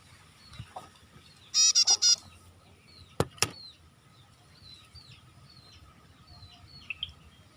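A prinia (prenjak) calling: a quick burst of four loud, sharp chirps about a second and a half in, with fainter bird chirps throughout. Two sharp clicks follow about a second later.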